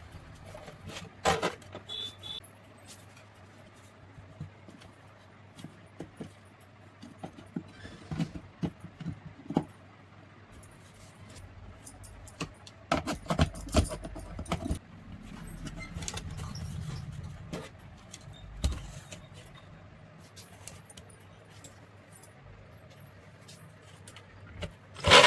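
Scattered metallic clinks, taps and knocks of tools and small mixer grinder parts being handled, some in quick clusters, over a faint steady hum; the mixer motor is not running.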